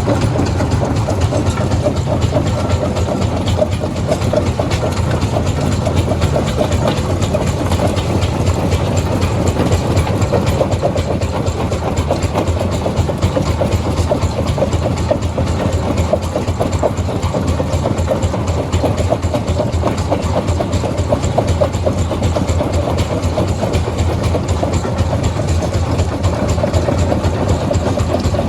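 Heavy machinery running steadily: a continuous low drone with a fast, even rattle that does not let up.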